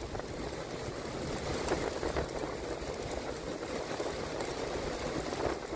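Rain falling steadily: an even, fairly quiet hiss with faint scattered drip clicks.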